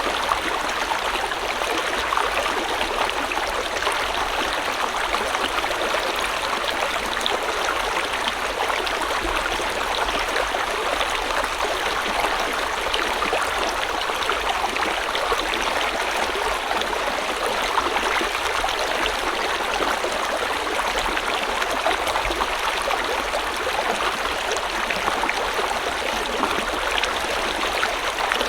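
A river stream flowing steadily over rocks, with a continuous rushing and fine gurgling of water.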